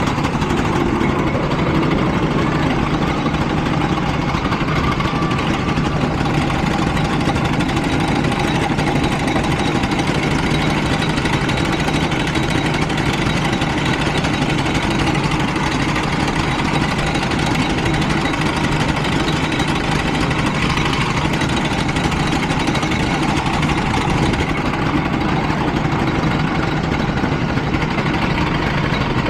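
Go-kart engine running at a steady, even speed, with no clear revving up or down.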